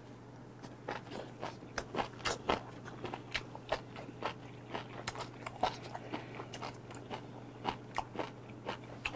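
Close-up chewing of a mouthful of yangjangpi, cold jellyfish and vegetables with mustard sauce: crunchy chewing clicks, about two to three a second.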